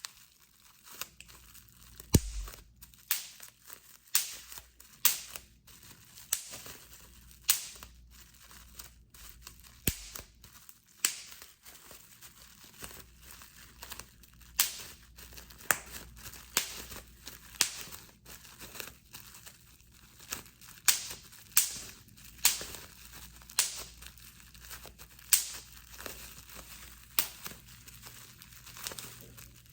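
Bubble wrap being popped by hand, one sharp pop every second or so, with plastic crinkling between the pops.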